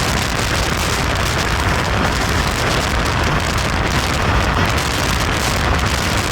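Passenger train running: a steady, even rushing noise of wheels on the rails and air rushing past.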